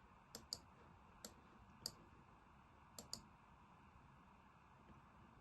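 Six faint computer mouse clicks over near-silent room tone, two of them in quick pairs.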